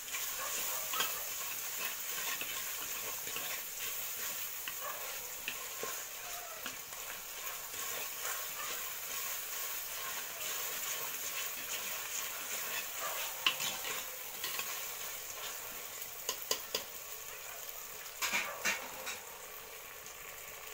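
Onions and tomatoes sizzling in oil in an unglazed clay pot while a steel ladle stirs them. The ladle scrapes and clicks against the pot throughout, with a quick run of clicks near the end.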